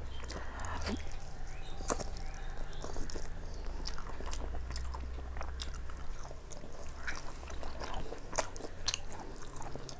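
Close-up eating sounds: a person biting and chewing chicken leg meat and fried rice, with many short wet mouth clicks and smacks.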